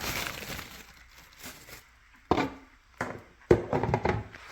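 Handling of an electric kettle and its plastic base: faint rustling, then three sharp knocks from about halfway in, the last the loudest, as the pieces are set down and picked up.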